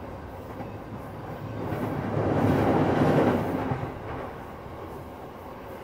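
JR East E233 series commuter train running between stations, heard from inside the car: a steady rolling rumble of wheels on rail. About two seconds in it swells louder for a second or so, then settles back.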